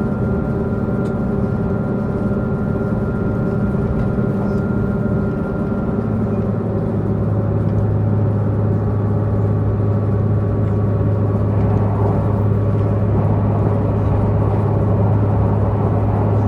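Diesel multiple-unit express train running, heard from inside the car: the diesel engine's steady hum over wheel and rail rumble. About six seconds in, the engine note changes to a strong steady low drone and the sound grows slightly louder.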